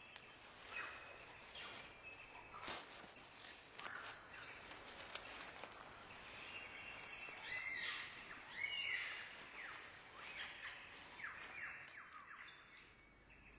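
Mixed forest birdsong: many short chirps, whistles and quick falling notes from several birds, over a steady faint hiss.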